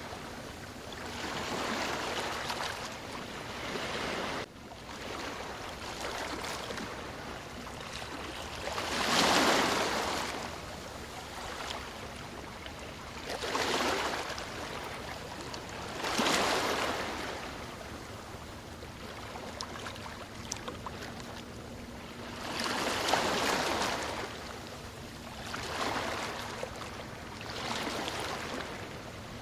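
Ocean surf: waves break one after another, each swelling and fading over a couple of seconds, every three to seven seconds.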